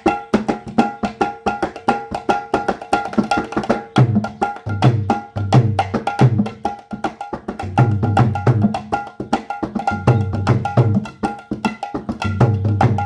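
Nitai Balaram mridanga (khol) played by hand in a fast rhythm: quick, ringing strokes on the small treble head, with deep bass-head strokes joining in repeated groups from about four seconds in.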